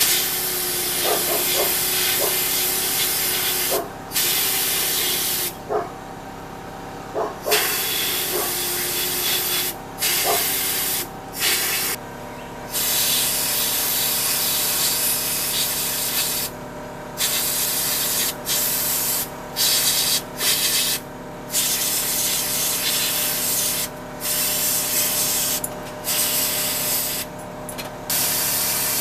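Hissing spray of air, switched on and off in repeated bursts of one to several seconds with short gaps, over a steady machine hum.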